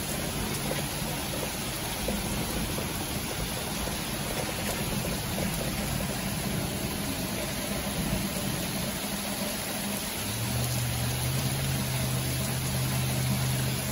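Steady hiss of a car on the move, with a low engine hum that grows stronger about ten seconds in.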